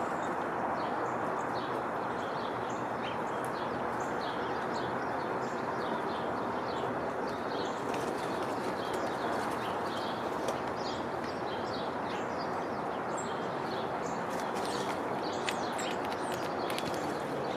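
Small birds chirping, many short high notes in quick succession throughout, over a steady low rushing background noise.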